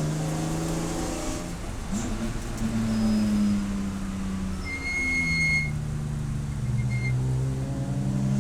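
Race car engine running under hard use, its revs rising and falling several times as it is driven through the gears. A brief high whine comes in about five seconds in.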